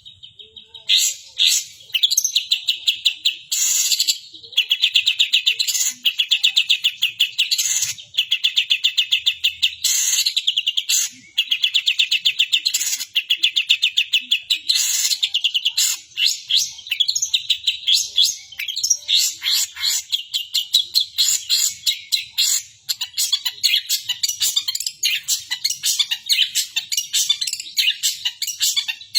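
Long-tailed shrike singing non-stop in long runs of very fast, high chattering notes with short breaks between them. Its song is worked with mimicry of the sooty-headed bulbul.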